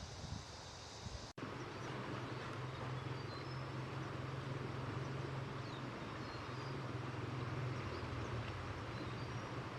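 A steady low machine drone, like a motor running, with a brief cut-out about a second in and a few faint high chirps over it.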